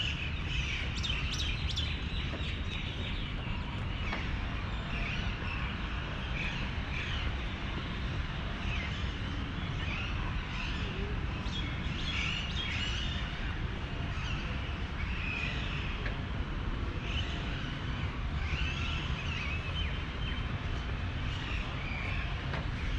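Birds chirping and calling, many short chirps throughout, over a steady low background rumble.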